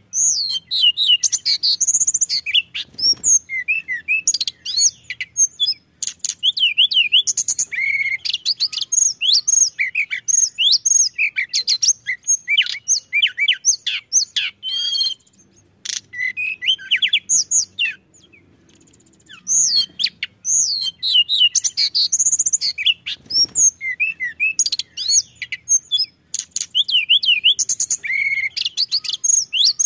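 Tledekan gunung songbird singing a fast, busy song of high chirps, trills and whistled glides, with a break of about two seconds just past the middle.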